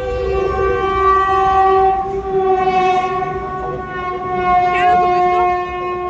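Train horn blowing one long, steady note over the low rumble of a moving train.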